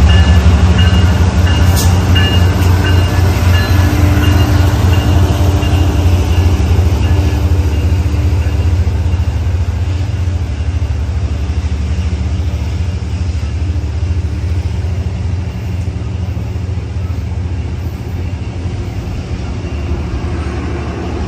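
A diesel-hauled passenger train passing close by: a loud, steady low rumble of locomotive and wheels on rail that slowly fades.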